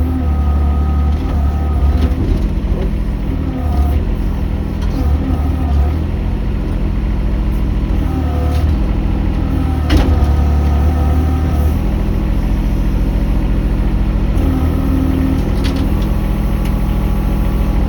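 Engine running steadily with a heavy low drone, its pitch shifting slightly a few times; a single sharp knock about ten seconds in.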